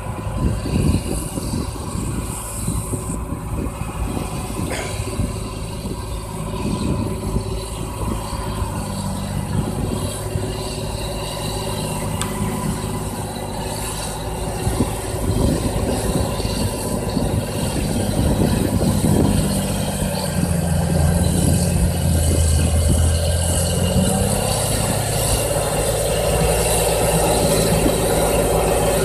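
John Deere tractor's diesel engine running under load while pulling a plough through wet, muddy ground, with rattling. The engine gets louder and deeper about two-thirds of the way through.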